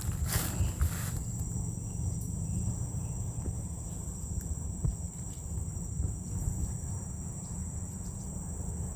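Steady high-pitched chirring of insects, with a low rumble underneath and some rustling in the first second.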